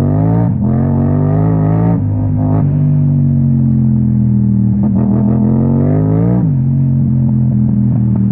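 Yamaha MT-07 parallel-twin engine through an Akrapovic exhaust, accelerating and upshifting: the engine note climbs and drops sharply with a gear change about half a second in and again about two seconds in, holds steady, then rises and drops once more with another shift about six and a half seconds in.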